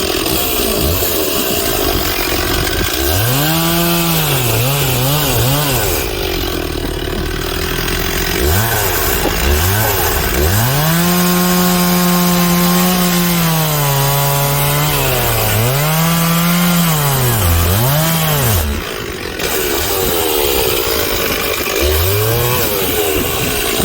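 Two-stroke chainsaw cutting through the trunk of a fallen cottonwood. The engine pitch sags again and again as the chain bites into the wood, then climbs back to full revs.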